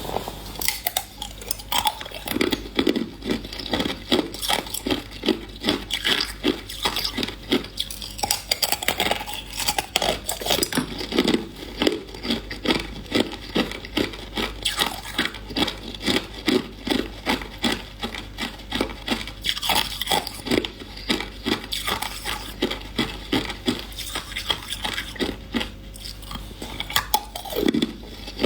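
Hard ice being chewed and crunched between the teeth close to the microphone: a continuous run of close-set sharp crunches.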